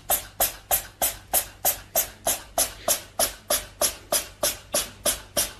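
A steady, even run of sharp taps or strikes, about three and a half a second, each one short and dying away quickly.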